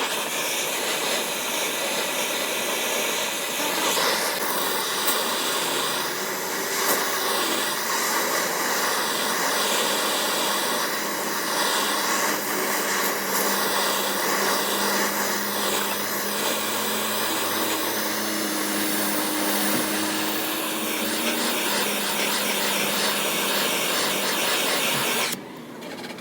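Shop machinery running with a loud, steady whooshing hiss and faint shifting tones. It cuts off abruptly about a second before the end.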